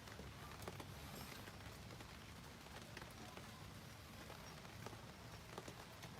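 Faint background with scattered light ticks and taps at irregular intervals.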